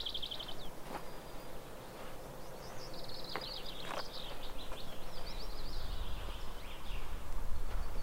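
Songbirds singing in quick repeated trills: one at the very start, a longer spell about three seconds in, and a faint one near the end. A low rumble builds toward the end.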